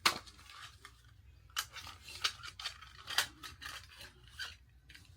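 Gift-wrapping paper being handled and cut with scissors: a string of short, sharp crinkles and snips.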